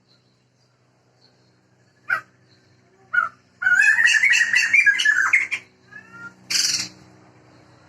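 Sumatran laughingthrush (Garrulax bicolor) calling: two short calls, then a loud cackling, laughing chatter of about two seconds from just before halfway, and a short harsh squawk near the end.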